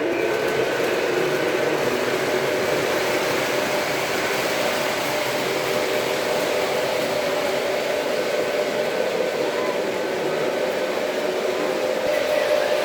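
Model train running along its track: a steady whir with no breaks.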